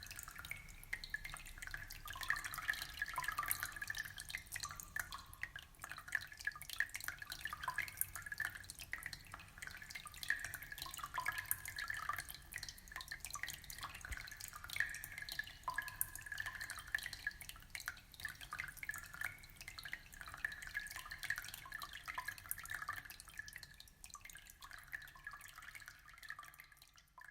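Aquarium water trickling and dripping: a steady, dense patter of small splashes that fades out over the last few seconds.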